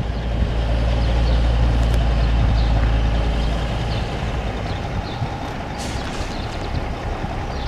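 A 1977 Ford 9000 grain truck's engine running steadily at idle, as a low even hum that fades somewhat about halfway through.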